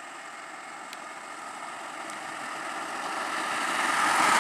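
A motor vehicle's engine running, growing steadily louder as it approaches.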